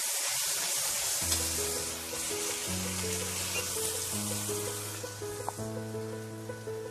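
Freshly added wet onion-tomato-garlic-ginger masala paste sizzling in hot oil in a kadai. Background music comes in about a second in.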